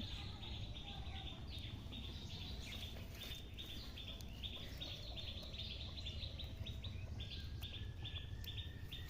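Faint, steady chirping from a bird, short high notes repeated about three or four times a second over quiet outdoor background noise.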